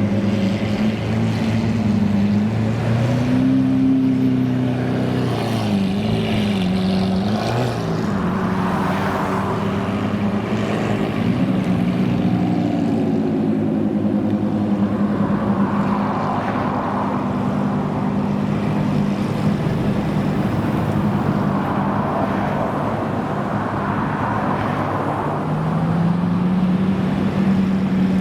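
Supercar engines running at low revs, their pitch lifting and dipping briefly a few times, including once near the end.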